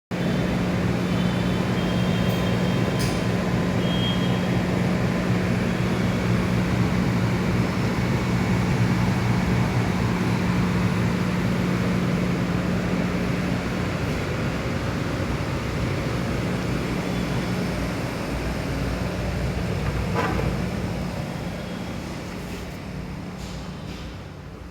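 Steady mechanical hum with a rushing rumble, fading over the last few seconds.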